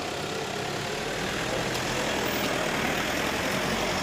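Car engines idling steadily, getting gradually louder as the vehicles begin to move off.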